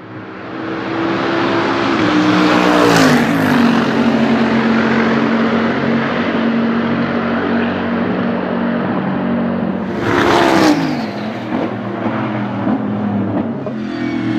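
Bentley Continental GT3 race car's twin-turbo V8 running loud at track speed. Its note drops sharply in pitch about three seconds in and again about ten seconds in, each time with a brief louder swell.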